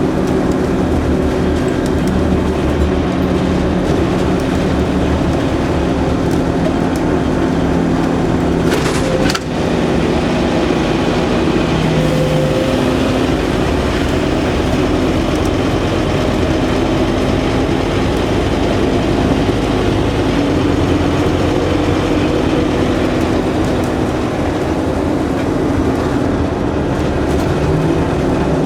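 Scania N230UD OmniCity bus's five-cylinder diesel engine running under way through its ZF automatic gearbox, the engine note shifting in pitch a few times as it changes speed and gear. A single short knock about nine seconds in.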